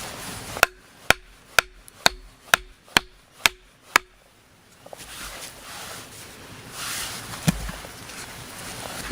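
Seven evenly spaced hammer blows on wood, about two a second, each with a short metallic ring, then rustling of handled material and one more thump near the end.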